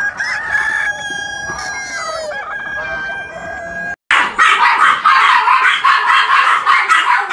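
A rooster crowing over clucking chickens for about four seconds. After a brief cut, two small dogs bark rapidly and loudly back and forth at each other.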